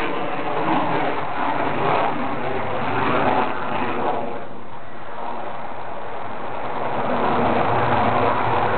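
F-15 Eagle's twin turbofan jet engines, a steady jet noise from the aircraft in flight, dipping slightly in the middle and swelling again near the end.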